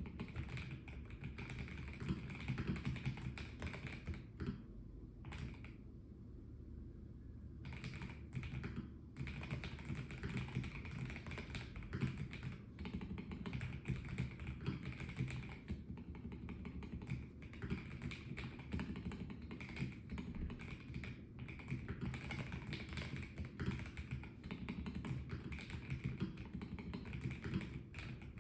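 Continuous typing on a Melgeek Mojo84 plastic mechanical keyboard, with dense, irregular keystroke clacks. There is a short lull about five seconds in.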